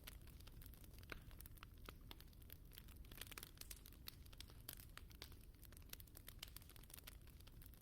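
Fire in a fireplace crackling faintly, with many small irregular pops and snaps over a low, steady rumble.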